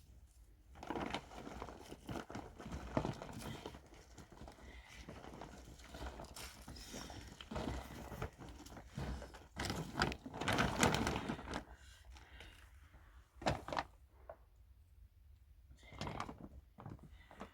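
Irregular knocks, thuds and crunching rustles, busiest about ten seconds in, with one sharp knock a few seconds later and a few more near the end.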